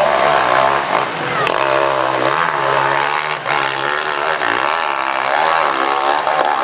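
Motocross bike's engine revving up and down over and over as it climbs a steep hill under load.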